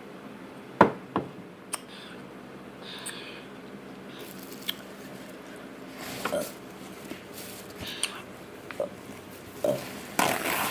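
Close-up eating noises: scattered sharp clicks and smacks from chewing and handling food, with short rustling bursts, the loudest click about a second in, over a steady low hum.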